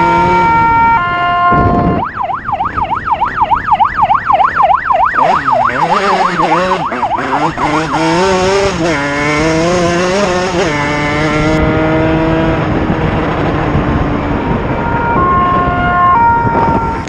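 Police siren cycling through its patterns: a two-tone hi-lo alternating about once a second, then a fast warbling yelp, then slower wavering tones, and the two-tone again near the end.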